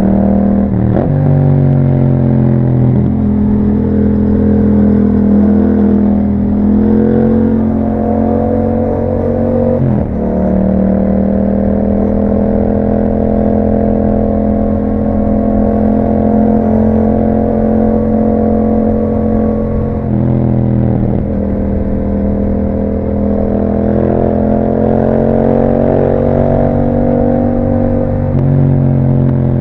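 2021 Yamaha MT-07's parallel-twin engine running through an Akrapovic exhaust while being ridden. Its pitch climbs and drops several times in the first ten seconds, holds steady for about ten seconds at a cruise, then rises again with another drop near the end.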